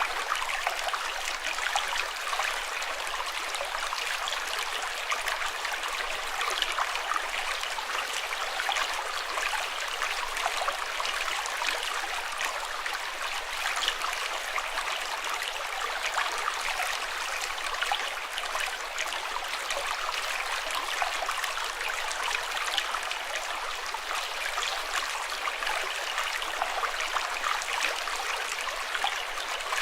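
Water flowing and splashing steadily, a continuous rush flecked with many small splashes.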